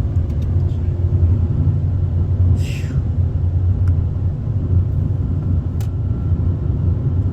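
Steady low rumble of a car, heard from inside the cabin, with a short hiss about two and a half seconds in.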